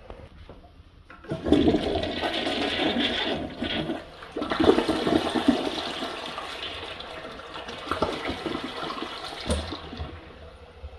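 A toilet being flushed: water rushes into and down the bowl, with a second surge about three seconds later, then drains away and fades over several seconds. The toilet is one that had backed up because of a blocked septic tank.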